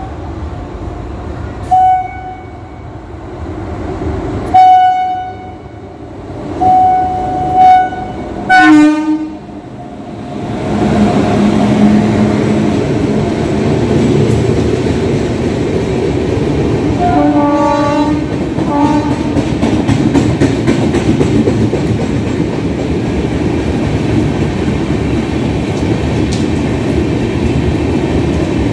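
Indian Railways express train running through a station at speed. The locomotive horn sounds five blasts as it approaches, the last one dropping in pitch as it passes. Then comes the steady rumble of the coaches on the track, with two more, lower horn blasts a little past halfway.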